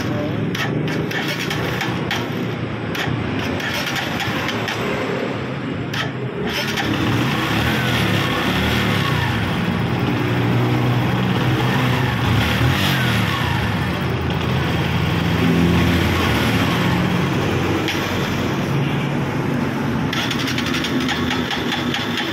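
A Bajaj Pulsar NS125 FI's single-cylinder engine is started and then revved up and down, its pitch rising and falling from about a third of the way in. The engine is hard starting and will not hold an idle by itself.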